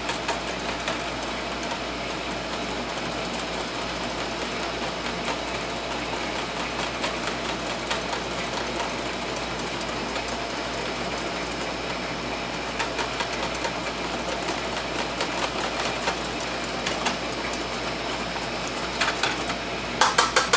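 Wire whisk beating a thin sauce mix in a bowl, a fast run of rapid clicking strokes against the bowl. A few louder clatters near the end.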